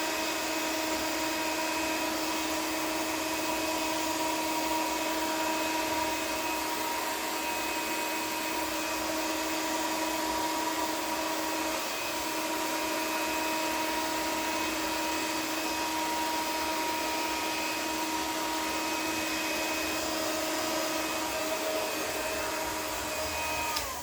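Hair dryer running steadily: a rush of air with a constant whine, switched off near the end as the whine winds down.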